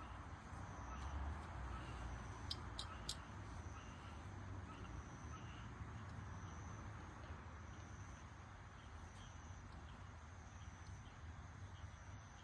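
Campfire burning, with a steady soft hiss and a few sharp crackling pops about two and a half to three seconds in. Faint high chirping of insects runs behind it.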